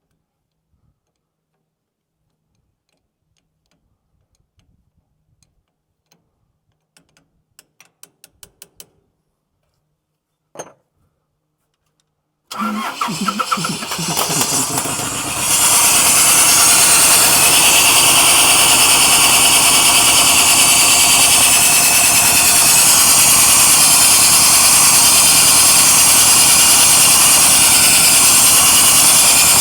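A few faint clicks, then about twelve seconds in a hard-starting diesel engine cranks and catches after being starved of fuel, rising a few seconds later to loud, steady running.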